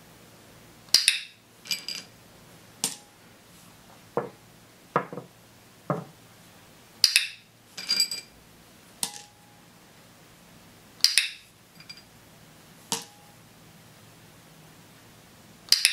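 Training-clicker clicks mixed with small toy figures and glass gem tokens knocking and clinking on a tabletop. There are about fifteen sharp, separate sounds at irregular gaps of roughly a second.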